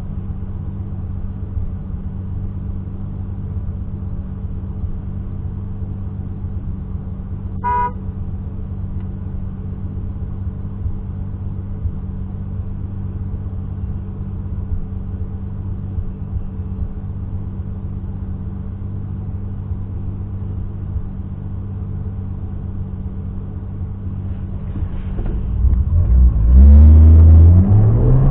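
Turbocharged M20B27 straight-six of a BMW E30 running steadily at constant revs, with one short car horn beep about eight seconds in. Near the end the engine gets much louder and its pitch climbs as the car accelerates.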